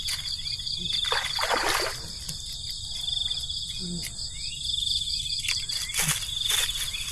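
Forest insects chirring in a steady, high, pulsing trill, with a few short noisy bursts over it.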